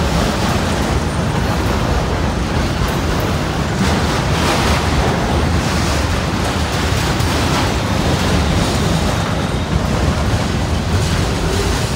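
Long CSX autorack freight train rolling past at close range, a steady rumbling rush of wheels and cars, with wind buffeting the microphone.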